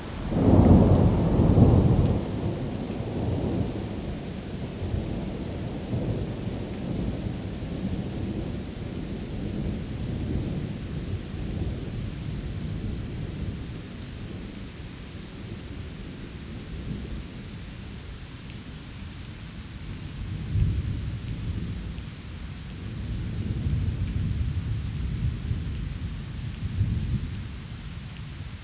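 Thunderstorm ambience: a loud clap of thunder right at the start, rumbling away over several seconds, over steady rain, with more low rolls of thunder in the second half.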